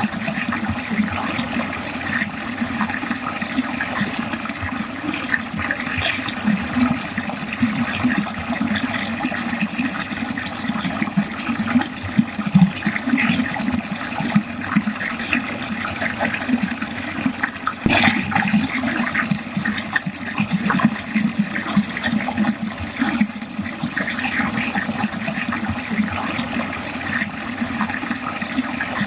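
Water flowing steadily down a drain, a continuous splashing rush. A single brief click sounds a little past halfway.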